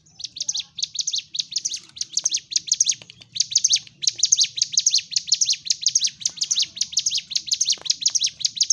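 Ciblek gunung, a prinia, singing its fast fighting song: a rapid, unbroken string of short, high, downward-sweeping chirps, several a second, starting abruptly just after the start and barely pausing once about three seconds in.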